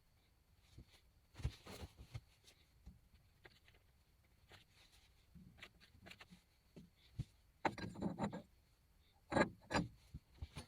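Scattered faint clicks, knocks and short scraping rubs, as of objects being handled and set down. The loudest come in a cluster a little under eight seconds in and in two sharper knocks about a second later. No motor is running.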